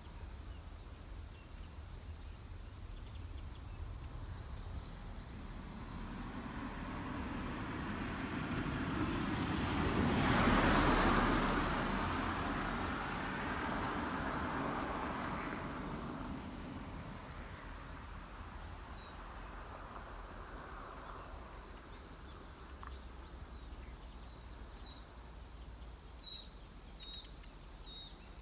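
Outdoor ambience in which the noise of a passing vehicle swells up and fades away, loudest about ten seconds in. Short high bird chirps repeat near the end.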